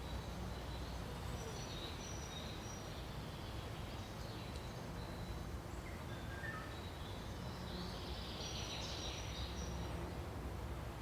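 Faint bird calls: scattered short high chirps, a few lower notes about six seconds in, and a denser flurry of chirping about eight seconds in, over a steady low rumble.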